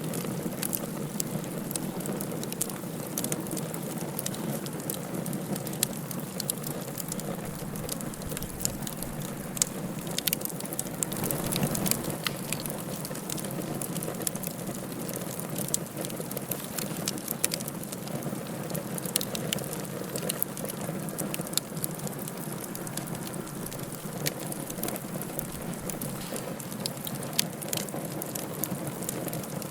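Wood fire burning in a fireplace, crackling with frequent sharp pops over a steady hiss.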